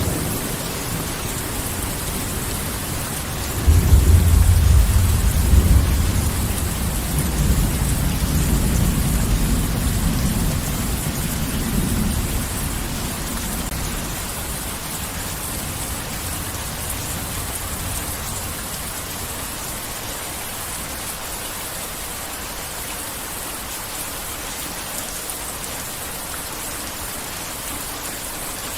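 Heavy rain falling steadily, with a peal of thunder that breaks suddenly a few seconds in as a deep rumble and rolls away over about ten seconds.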